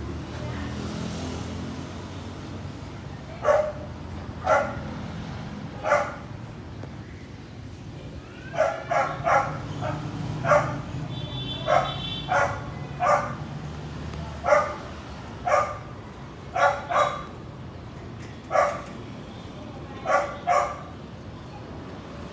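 A dog barking about twenty times in short, irregular runs over a steady low rumble.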